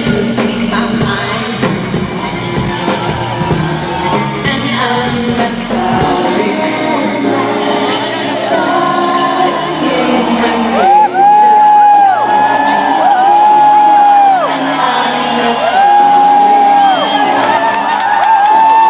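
Live pop concert music played loud through an arena sound system, with long held sung or synth notes repeating in the second half and scattered crowd whoops.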